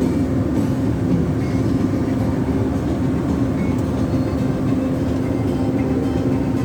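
Forestry crane's engine running steadily under a constant hum, with no change in speed.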